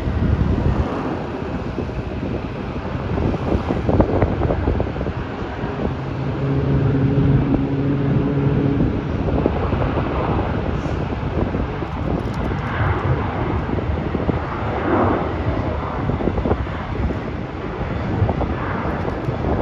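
Boeing 737 jet airliner taking off, its engines heard as a steady rumbling jet noise, with wind buffeting the microphone.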